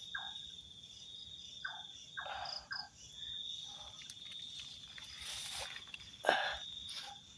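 A night insect's steady, high pulsing trill, dropping out briefly about two seconds in, with short rustling and handling noises a few times over it.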